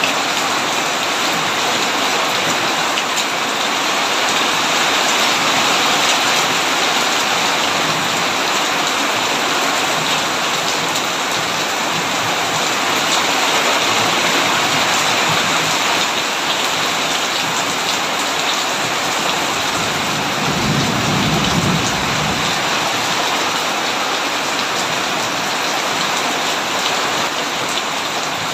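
Heavy rain pouring steadily onto a tin roof, a dense even hiss. A short low rumble of thunder comes about three-quarters of the way through.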